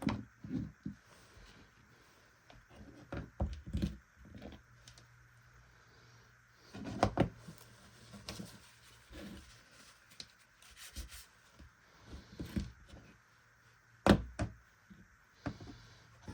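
Irregular knocks, clicks and rubbing from hand work on a motorcycle ignition lock and key, with two louder knocks, about seven and fourteen seconds in.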